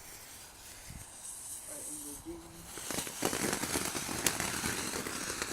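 Firework fountain going off: a steady hissing spray with dense crackling, starting about three seconds in after a fainter hiss.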